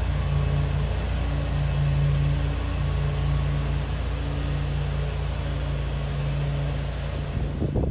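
NJ Transit commuter train of bilevel coaches pulling away: a steady running rumble with a low, even hum from the locomotive that drops out briefly a few times.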